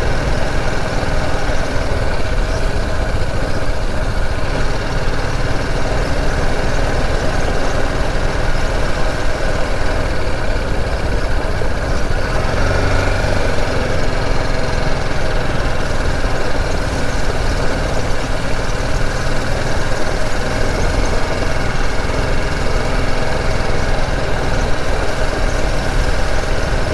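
Motorcycle engine running steadily while riding, with a constant low rumble.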